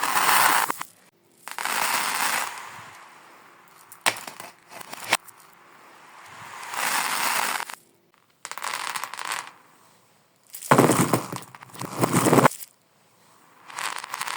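Glass marbles rolling and clattering down a marble run, played in reverse: each stretch of rolling noise swells up and then cuts off abruptly. The loudest stretch comes about two-thirds of the way through.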